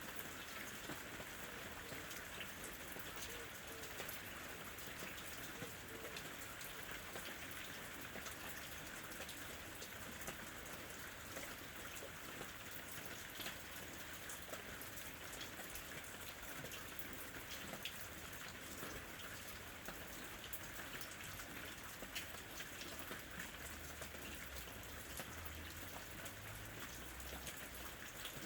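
Steady rain falling, with many small drops pattering on a surface. A faint low rumble comes in near the end.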